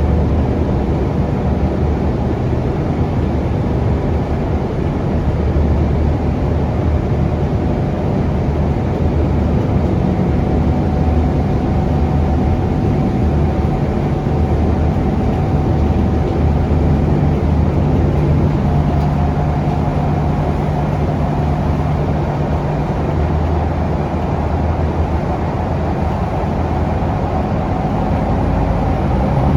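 Scania K360UA articulated bus heard on board: its Scania DC9 engine running steadily under road and tyre noise, its note shifting now and then as the bus changes speed.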